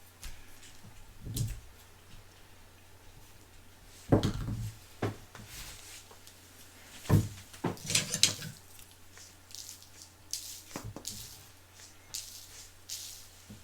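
Irregular light knocks, clicks and short rustles of small objects being handled, with a few louder knocks here and there.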